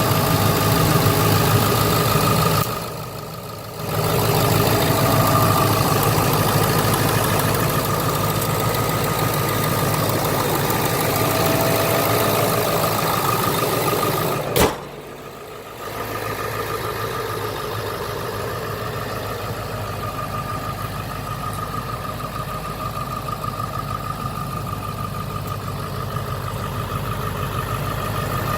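Ford 7.3 Powerstroke turbo-diesel V8 idling steadily. Its level drops briefly twice, about three seconds in and again about halfway through, the second time just after a sharp click.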